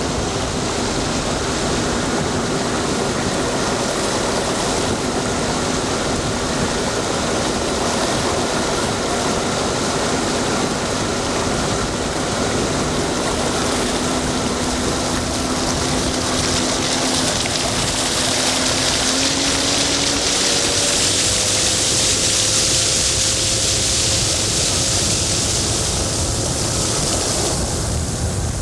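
Boat motor running steadily under a rush of water and wind noise; its pitch rises slightly about two-thirds of the way through, and the rushing hiss grows louder toward the end.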